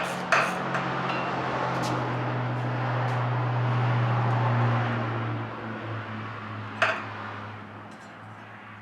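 A low, steady hum swells for a few seconds and then fades away, with a couple of sharp metal clinks as the engine's muffler studs are worked out with a hex key.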